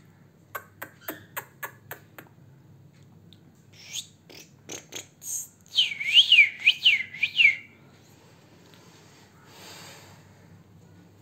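Albino cockatiel whistling: a short warbling whistle that swoops up and down four or five times, after a few quick rising chirps. It is preceded by a quick run of about seven sharp clicks.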